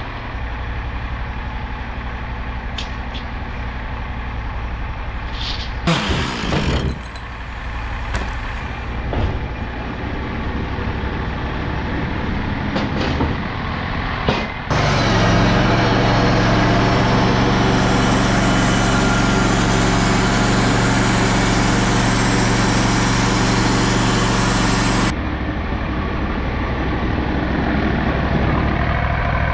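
Sawmill engine running steadily, with a few knocks, then a loud stretch of about ten seconds, starting and stopping suddenly, as the saw works through a hemlock log.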